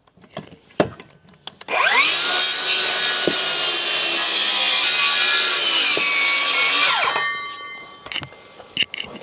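Circular saw, its blade depth set to about an inch, spinning up about two seconds in and cutting through inch-thick wooden battens for about five seconds, then winding down. A few clicks of handling come before it.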